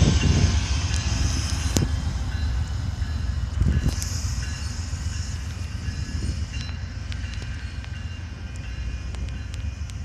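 Amtrak passenger train rolling past with a steady low rumble and a few sharp clicks from the wheels, growing fainter as it moves away.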